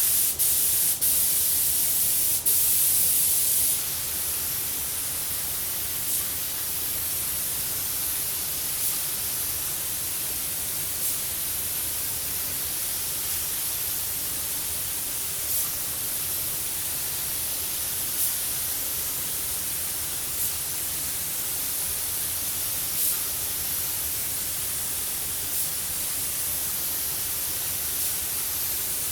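Compressed-air paint spray gun hissing as a second coat of gloss clear goes on. The first few seconds hold louder, choppy bursts, followed by a steady hiss that swells slightly about every two and a half seconds.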